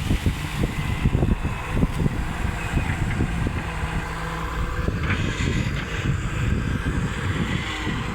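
Volvo excavator's diesel engine running steadily with a low, uneven rumble.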